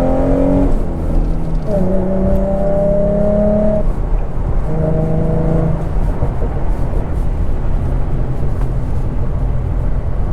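2011 Ford Mustang's 3.7-litre V6 accelerating hard through the gears. The engine note climbs in pitch and breaks at upshifts under a second in and about four seconds in, pulls briefly again, then gives way to steady road noise.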